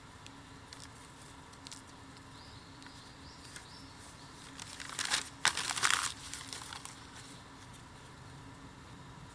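Dry bamboo and bamboo leaves crackling and rustling: a few faint scattered snaps, then a loud crinkling burst with one sharp snap about five seconds in.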